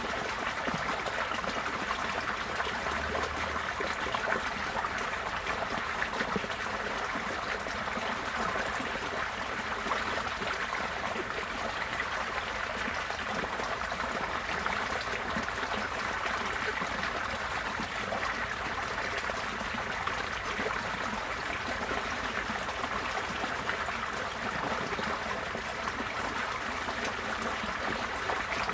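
Receding floodwater flowing steadily, a continuous trickling and gurgling of moving water.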